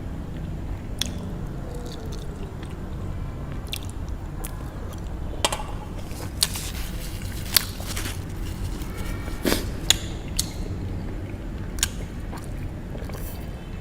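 Close-miked chewing of Korean spicy noodles, with a handful of sharp, irregular mouth clicks and smacks over a steady low hum.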